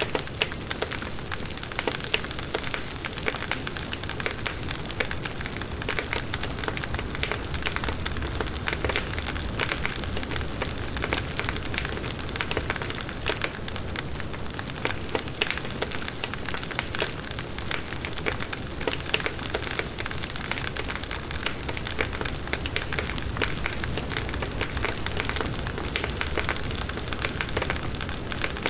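Firewood burning in a campfire, with a steady hiss and frequent small crackles and pops.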